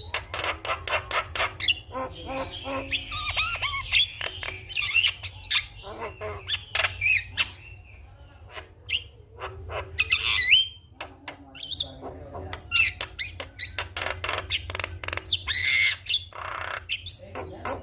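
Javan myna chattering: fast runs of clicking notes mixed with short whistles and harsh squawks, with a brief lull about eight seconds in.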